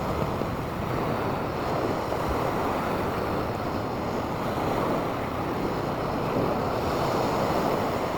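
Sea waves washing onto a sand beach: a steady rush of surf mixed with wind.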